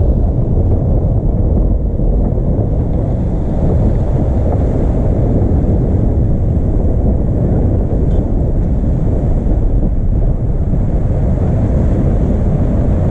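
Steady, heavy wind rumble on the microphone at sea, with the rush of waves mixed in.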